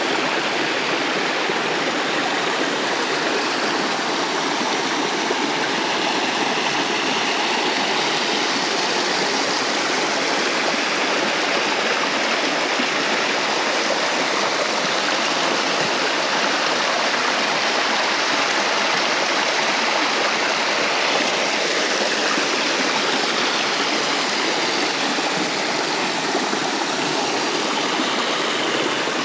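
Mountain river in a gorge, rushing and splashing over rocks with a steady, loud rush of water.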